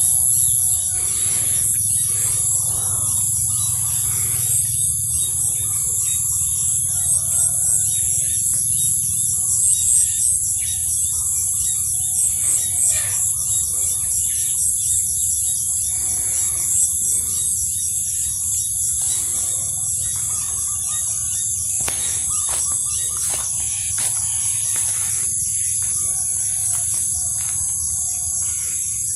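Rural field ambience: a steady, high-pitched chorus of insects with birds chirping, over a low steady hum.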